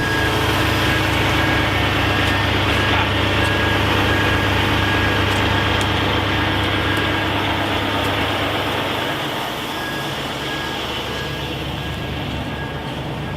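Heavy vehicle engine running while a reversing alarm beeps repeatedly. The alarm pauses for a few seconds midway, and the engine runs quieter from about nine seconds in.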